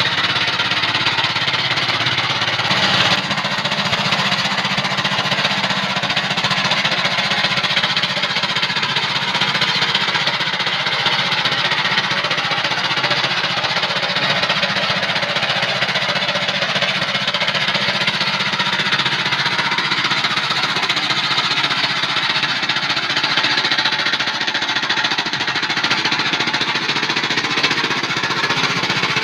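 Rice-field tractor engine running steadily under work, a loud, continuous rapid knocking clatter, briefly louder about three seconds in.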